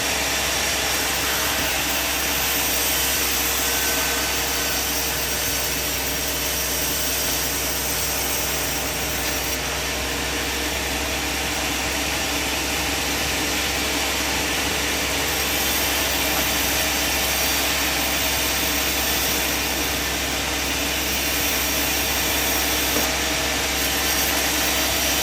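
Sawmill machine running steadily, a continuous mechanical noise that keeps the same level throughout.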